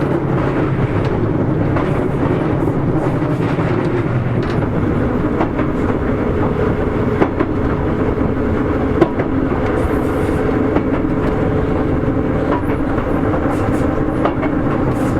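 Sotetsu 8000 series electric train running at speed: a steady rumble of wheels on rail with a few sharp clicks from rail joints. A steady humming tone comes in about five seconds in and fades near the end.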